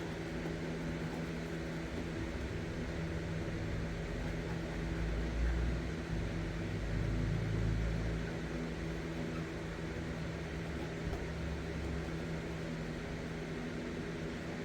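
Steady machine hum like a running fan or motor, with a low rumble that swells and fades between about five and eight seconds in.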